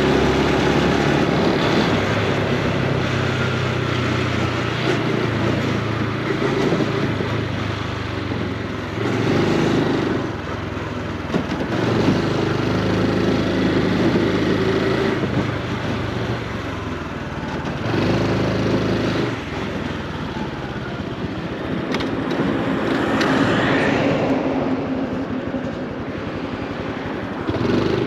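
Honda Super Cub C125's single-cylinder four-stroke engine and exhaust while riding, the engine note rising and falling repeatedly with throttle and gear changes.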